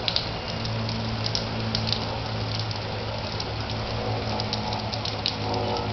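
Heavy rain falling and pattering on roofs, with many sharp drop ticks over a steady hiss. A steady low hum runs underneath.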